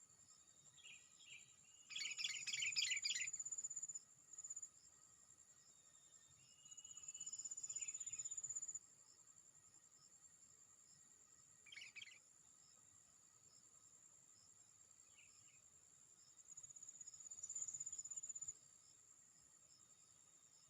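Sooty-headed bulbul (kutilang) calling: a loud burst of rapid bubbly chirps about two seconds in, then shorter calls scattered through. A steady high-pitched insect whine runs underneath, with two longer high buzzing stretches.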